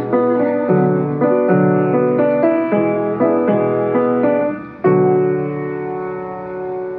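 Piano playing the closing bars of a song: a string of struck notes and chords, then a final chord about five seconds in, held and slowly dying away.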